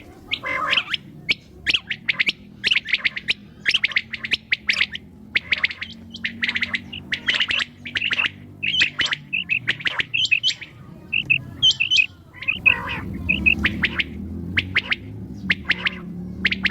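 Female common quail calling: a dense run of short, high chirps, several a second, with a rougher, harsher note about half a second in and another about thirteen seconds in, over a faint low steady hum.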